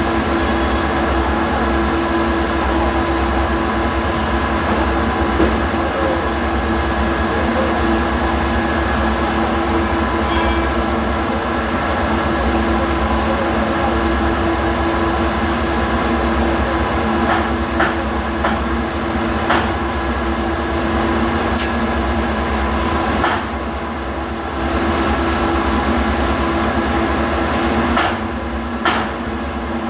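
MIG welding arc crackling steadily, stopping briefly twice in the second half.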